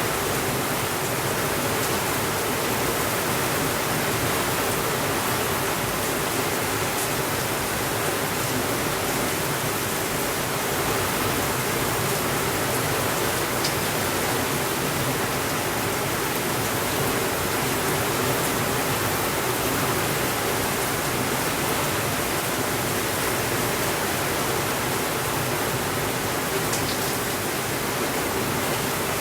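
Steady rainfall, an even hiss with no thunder, with a few faint ticks here and there.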